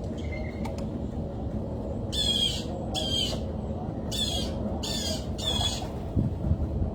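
A bird gives five short, harsh squawking calls about two-thirds of a second apart, with a short pause after the second, over a steady low rumble.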